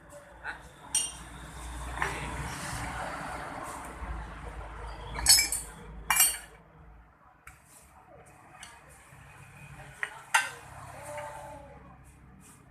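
Metal tools and parts clinking and knocking during engine work: a few separate sharp clinks, with a steady rushing noise for a couple of seconds early in the stretch.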